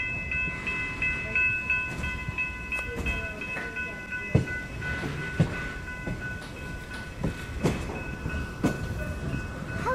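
Passenger train rolling slowly over a grade crossing: a low rumble with a few sharp clunks of the wheels over rail joints from about four seconds in, while the crossing's warning bell rings steadily and fades away.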